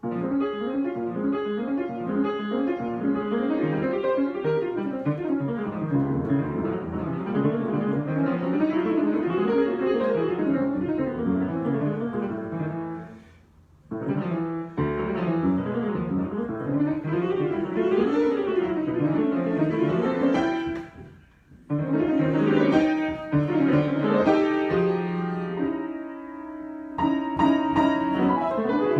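Improvised piano playing: flowing runs of notes that stop briefly twice, about halfway and about three-quarters through, with a softer held chord near the end.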